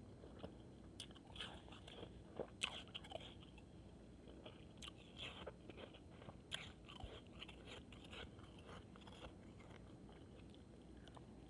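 A person biting and chewing shaved ice, faint irregular crunches with a few louder bites.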